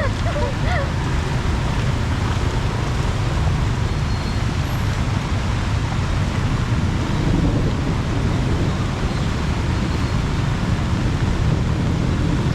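Steady, even noise of heavy rain mixed with road traffic, with no single event standing out.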